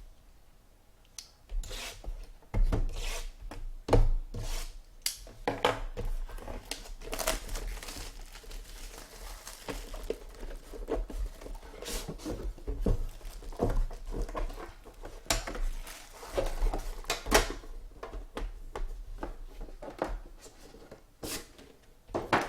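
Hands opening sealed trading card boxes: tearing plastic wrap and handling cardboard box parts, a run of irregular tears, rustles and light knocks.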